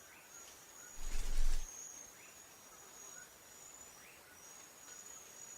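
Faint ambience of a steady high-pitched insect trill, with short rising chirps every second or two. About a second in comes a brief louder whoosh with a low rumble.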